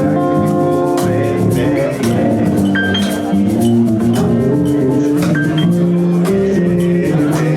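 Live band playing: a drum kit keeps a steady beat with cymbal strikes under electric guitar and bass holding and changing notes.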